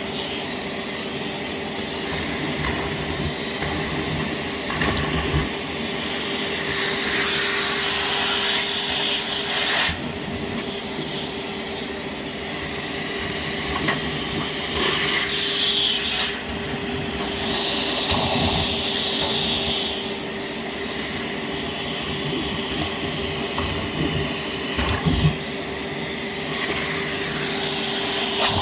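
Kärcher WD 6P wet/dry vacuum running with a steady motor hum, its rushing air hiss swelling and dropping several times as the nozzle sucks up small plastic Lego tyres, with a few short knocks and clatters from the pieces.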